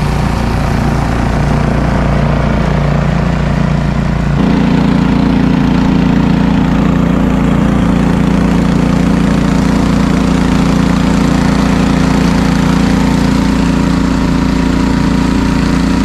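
Walk-behind snowblower's small engine running steadily. About four seconds in its note steps up and gets a little louder, then holds.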